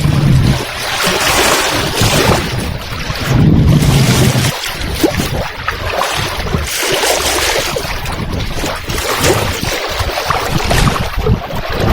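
Lake waves washing onto the shore, a continuous surging noise that swells and eases, with wind buffeting the microphone in low rumbling gusts at the start and again about three and a half seconds in.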